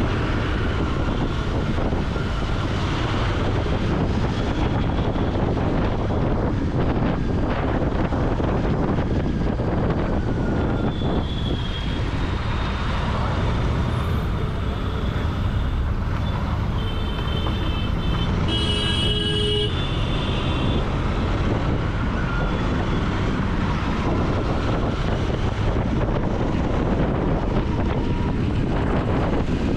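Royal Enfield Continental GT 650's parallel-twin engine running steadily through its exhaust while riding in traffic. A vehicle horn toots briefly about two-thirds of the way through.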